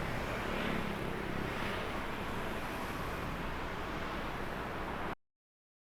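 Steady outdoor noise, a broad even rumble with no distinct events, that cuts off abruptly about five seconds in.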